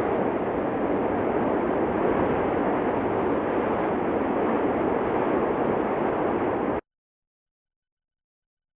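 Steady rushing noise with no distinct events, which cuts off abruptly to complete silence about seven seconds in.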